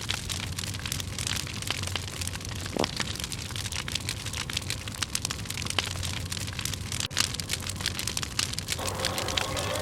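Campfire of dry split firewood burning briskly, with dense, irregular crackles and pops over a steady hiss. A brief rising whistle is heard about three seconds in, and music comes in near the end.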